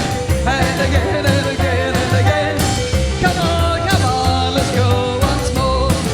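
Live rockabilly band playing at full tilt: a woman singing over a drum kit, double bass and piano, with a steady driving beat and a pulsing bass line.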